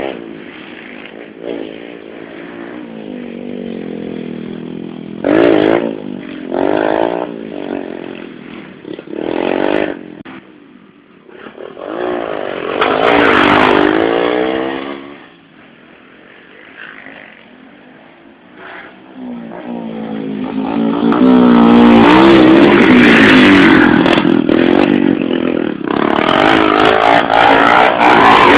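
Small 110cc motorcycle engines revving and passing one after another, their pitch rising and falling with the throttle. There are short bursts in the first half and a quieter stretch in the middle, then a long loud spell of several bikes near the end.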